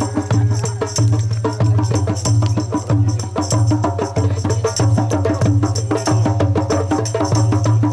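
Music with a steady deep drum beat and clattering percussion.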